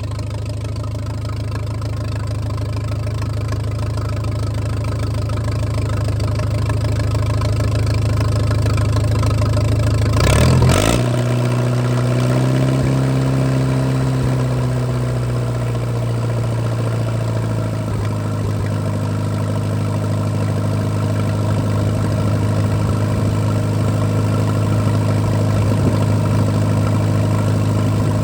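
Allis-Chalmers WD pulling tractor's four-cylinder engine running through a cheap aftermarket tailpipe, idling steadily. About ten seconds in there is a loud, sudden surge; the engine then runs a little faster for several seconds before settling back to idle.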